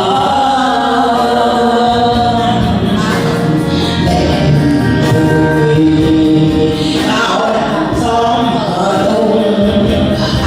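A song: voices singing a melody together over music.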